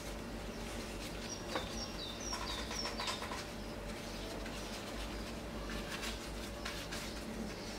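A bird chirps a quick run of short, high chirps about a second in, over soft rustling and light taps as hands tuck the edges of thin yufka pastry sheets around a metal baking tray.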